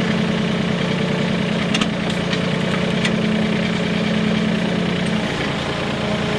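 Diesel engine of a Mahindra 1626 compact tractor running steadily, with a few faint clicks over the engine note.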